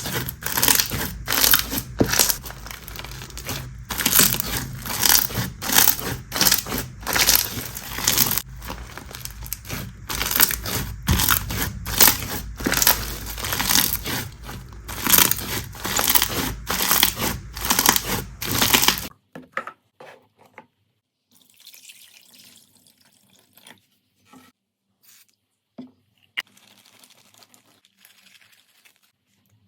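Slime worked by hand, a dense run of loud, crunchy crackling and popping. About 19 seconds in it cuts off suddenly and gives way to much quieter handling, with soft, scattered sticky clicks.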